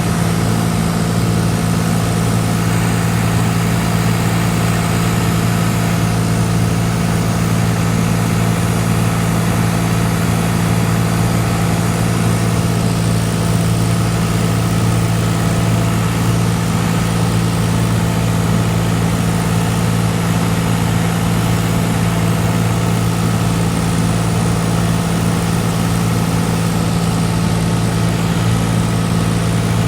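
Cessna 182's piston engine and propeller heard from inside the cabin, a loud, steady drone that holds an even pitch throughout.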